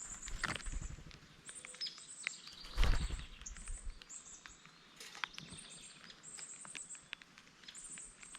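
Rain pattering and dripping with scattered short, high bird chirps. A loud low thump with a brief rumble comes about three seconds in.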